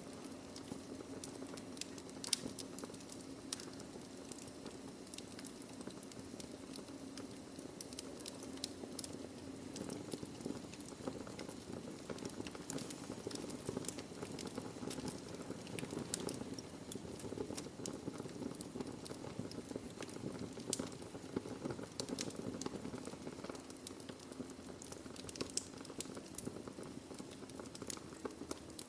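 Wood fire burning in a fireplace: irregular crackling with frequent sharp pops over a steady low hiss of the burning logs.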